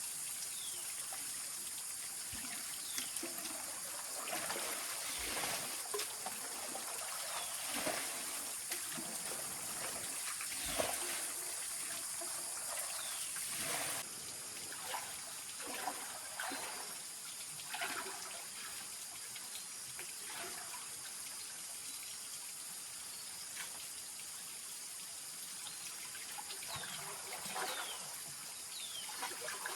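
Water trickling and splashing in irregular small bursts over a steady high hiss.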